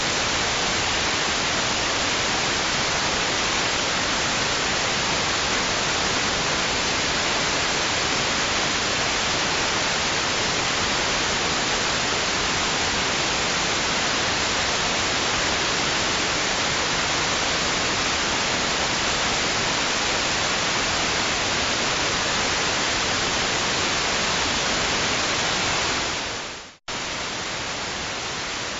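Steady, even hiss of white noise with no rhythm or swells. Near the end it fades out to a momentary silence, then comes back slightly quieter.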